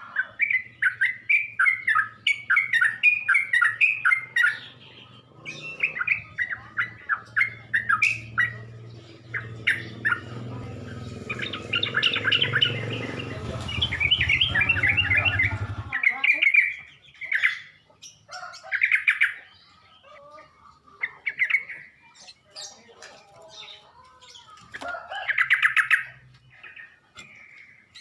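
Yellow-vented bulbul (cucak trucuk) singing in rapid runs and bursts of chirping notes, the kind of song played as a lure to draw other bulbuls. A low steady hum sits underneath from a few seconds in until a little past halfway.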